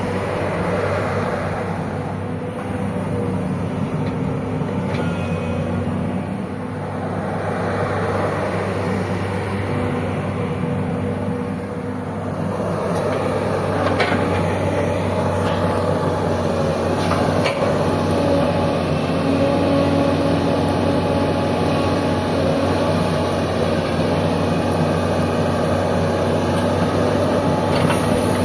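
Sany 210 excavator's diesel engine running steadily, growing somewhat louder about halfway through, with a few short knocks or clanks in the second half.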